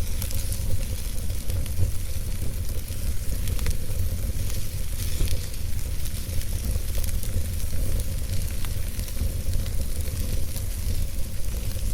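Campfire burning, with frequent sharp crackles and pops from the burning wood over a steady low rumble.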